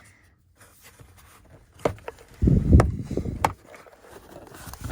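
Car parts being handled during hands-on work: a few sharp clicks and knocks, and a low rumbling clatter of about a second just before the middle, which is the loudest part.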